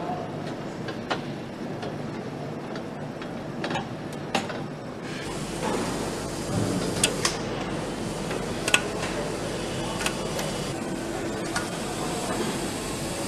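Assembly-line factory ambience: a steady machine hum with scattered sharp metallic clicks and clanks. The hum grows fuller and brighter about five seconds in.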